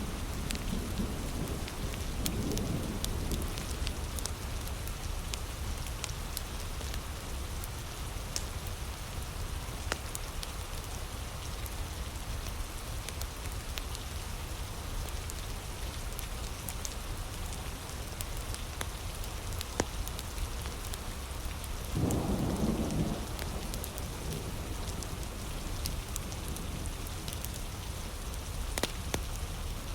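Steady heavy rain with a campfire crackling in scattered sharp pops. Short low rumbles come in a couple of seconds in and again about two-thirds of the way through.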